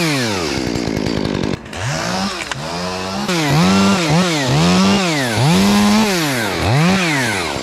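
Chainsaw revving up and easing off again and again in short cuts, about seven times, as branch stubs are cut off a tree trunk.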